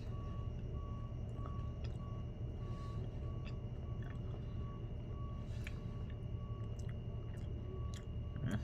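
Quiet chewing of a crispy rice marshmallow treat, with soft mouth clicks, over a steady low hum. A faint beep repeats about twice a second throughout.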